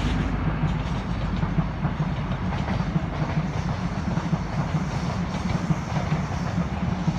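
High Speed Train (InterCity 125) passing, its coaches rolling by with wheels clattering over the rail joints over a steady low rumble.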